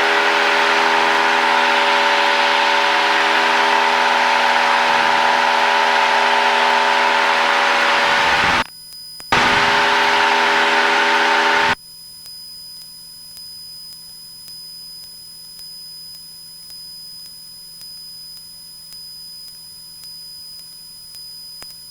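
Cessna 172 engine and propeller noise at full climb power, heard through the cockpit intercom as a loud steady drone with an even hum. It drops out briefly about eight and a half seconds in, then cuts off about twelve seconds in, leaving only a faint hum and a thin high tone, as the intercom microphone closes.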